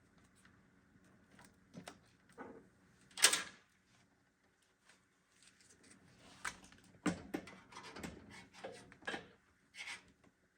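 Scattered clicks and knocks of computer parts being handled while a PC is put together, with one louder knock about three seconds in and a run of smaller clicks in the second half.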